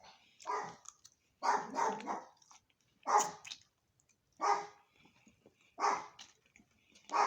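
A dog barking repeatedly: about six short barks, roughly one every second or so.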